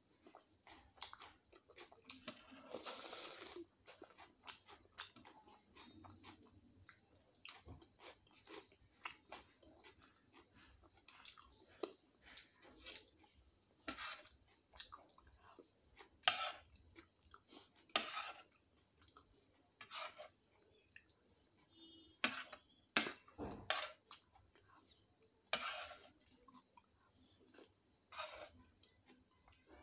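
Close-up chewing and biting of chole and puri, with irregular wet mouth clicks and smacks and a denser burst of crunching about three seconds in. A spoon clinks against the plate now and then.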